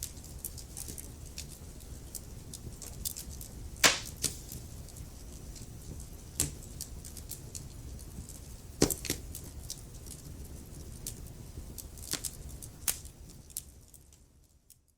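Wood fire crackling in a fireplace: a low steady rumble of flames with irregular sharp pops and snaps, the loudest about four seconds in, fading out near the end.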